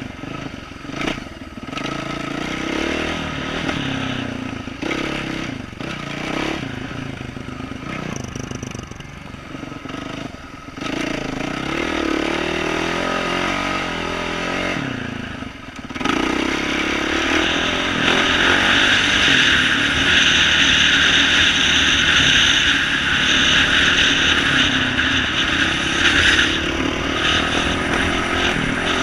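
2012 Yamaha YZ450F single-cylinder four-stroke dirt bike engine with an aftermarket exhaust, running under a trail ride with the revs rising and falling again and again. It gets louder from about halfway through.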